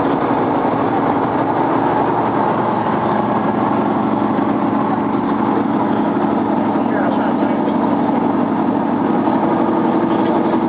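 Diesel train running, heard from inside the passenger carriage: the underfloor engine's steady drone mixed with the running noise of the train.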